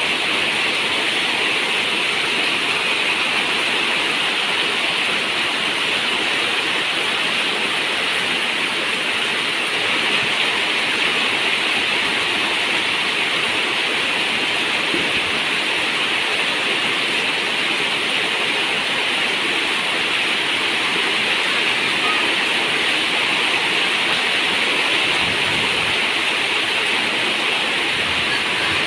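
Steady rain falling on a zinc roof, an even hiss with no breaks.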